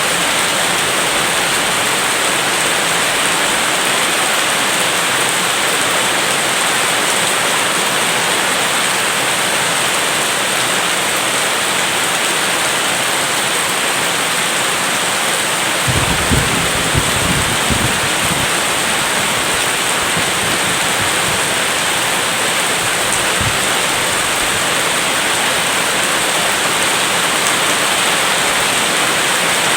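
Steady heavy rain, an even wash of noise, with a brief low rumble about halfway through and a short low thump a few seconds later.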